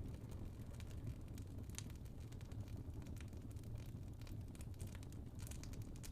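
Wood fire burning in a fireplace: a steady low rumble of the flames with scattered small crackles and pops from the logs.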